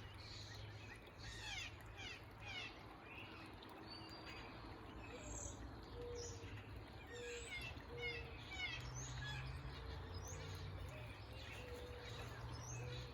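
Several small songbirds chirping and twittering in quick, rapidly falling notes, over a steady rushing background typical of a small backyard waterfall.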